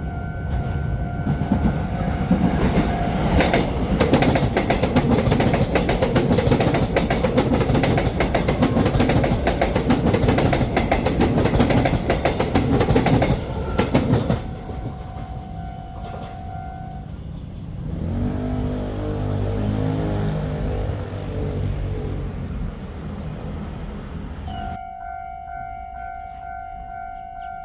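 A train passing through a station at speed: loud rushing with rapid wheel clatter over the rails for about fourteen seconds, then cutting off. A steady high tone sounds before the train and again after it has gone, and a lower pitched rumble rises and fades near the end.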